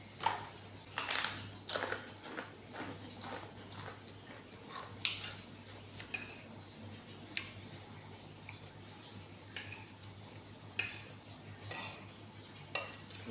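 Metal utensil clinking against dishware: a few sharp clicks close together about a second in, then single clicks every second or so.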